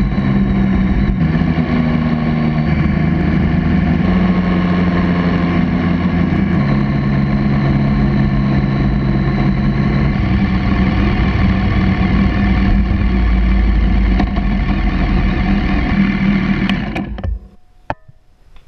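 BMW K1200R's inline-four engine running under way, its pitch stepping up and down several times with the engine speed. The sound stops about a second and a half before the end, followed by a couple of faint clicks.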